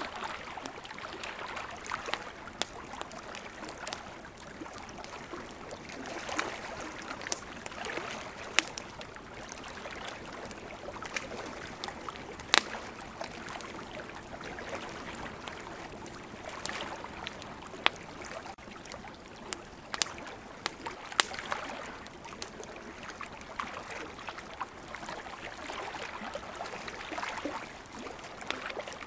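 Wood campfire crackling, with irregular sharp pops, a few of them loud, over a steady rush of ocean water that swells and eases.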